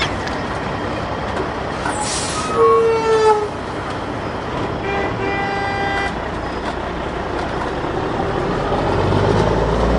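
Steady rushing noise with two horn-like toots: a falling one about two and a half seconds in, and a level one about five seconds in.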